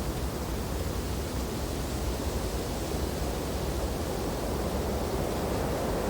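Wind blowing through snowy tree branches: a steady, low rushing with no separate gusts or knocks.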